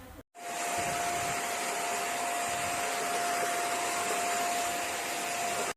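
Deerma DX700S handheld cyclone vacuum cleaner running steadily: a rush of air with one steady whine through it. It comes in abruptly just after the start and cuts off sharply at the end.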